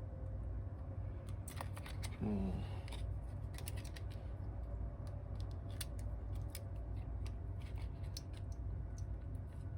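Small repair tools clicking and tapping against the parts of an opened iPhone 8 Plus, a scattered string of light sharp clicks over a steady low hum, with a brief squeak about two seconds in.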